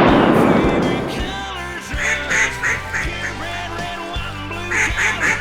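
The tail of a shotgun blast dies away over the first second. Then come two quick runs of duck quacks, four or five each, about two seconds in and again near the end, over background music.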